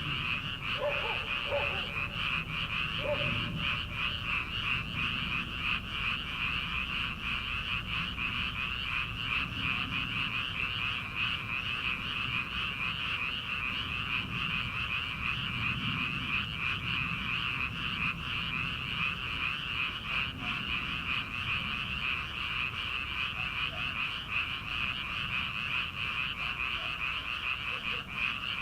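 Dense chorus of many rice-paddy frogs calling together, countless rapid overlapping croaks merging into one unbroken trill, over a steady low rumble.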